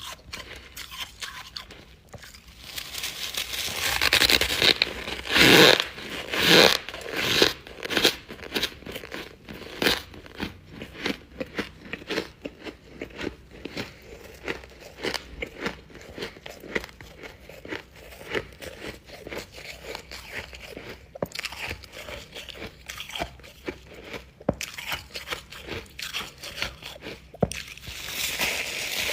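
Close-miked crunching and chewing of freezer frost, a steady run of sharp crunches that is loudest about four to seven seconds in and again near the end.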